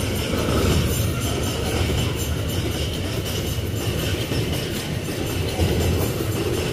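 Empty steel GDT gondola ore wagons rolling past close by: a steady rumble and clatter of their wheels on the rails.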